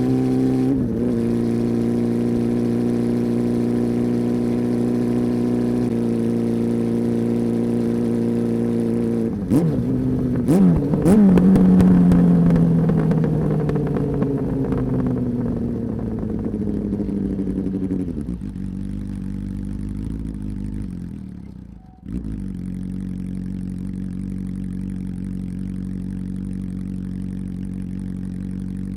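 Honda CB400 Super Four inline-four engine with a deep exhaust note, held at steady raised revs, then given a few quick throttle blips. The revs then sink slowly back towards idle. Near the end the sound briefly dips almost to nothing before settling into a steady, lower idle.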